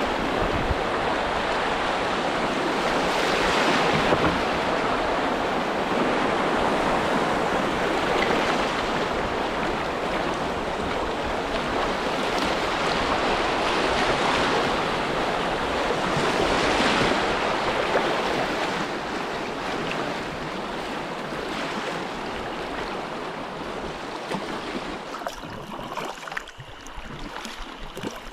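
Steady rushing of river water, swelling and easing, which fades near the end, with a few light knocks toward the end.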